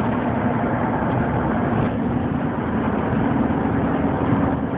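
Steady engine and road noise inside the cabin of a moving car, with a low hum.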